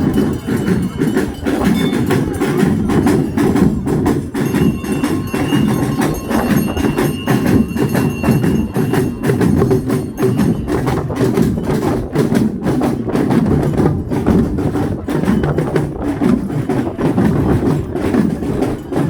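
Drum and percussion band playing, with dense, continuous strikes.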